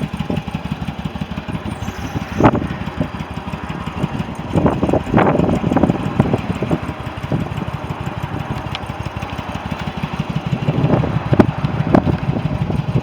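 2002 Yamaha V-Star's air-cooled V-twin engine idling with a steady, pulsing rumble, punctuated by a few brief louder spikes.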